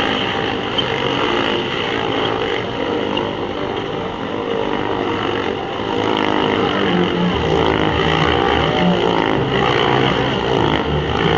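Several motorcycle engines running together inside a steel globe-of-death cage, their pitch rising and falling as the bikes circle. About seven seconds in, a deeper pulsing engine note grows louder.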